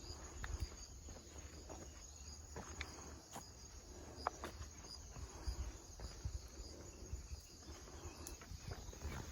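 Faint, steady chirping of insects, with scattered footsteps and light clicks over it.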